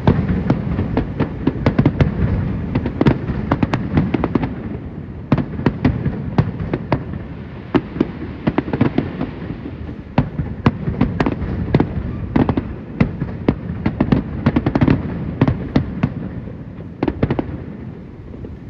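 Aerial fireworks display: many sharp bangs of bursting shells in quick succession over a continuous low rumble, tailing off near the end.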